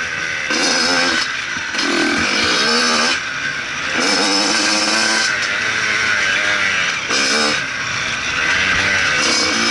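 Motocross bike engine revving hard in repeated surges, the throttle opening and closing about five times, with the pitch rising on each surge.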